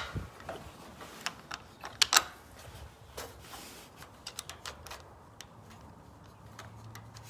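Irregular metal clicks and taps from a battery cable terminal and its bolt being fitted onto a new lawn mower battery's positive post, with a sharp knock right at the start and two more about two seconds in.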